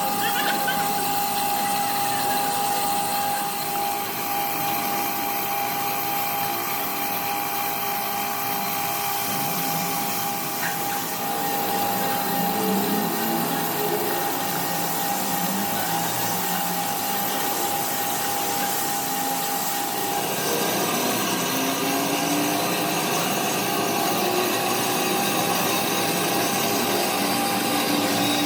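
A power tool running steadily, with a constant high whine that drops out about two-thirds of the way through while the noise continues.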